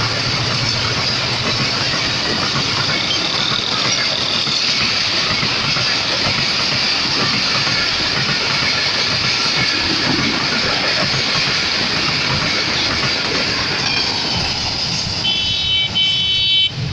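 Passenger train coaches rushing past at speed, a steady loud rumble and rush of wheels on rail and air. Near the end the noise thins as the last coach goes by, and a short high pulsing tone sounds.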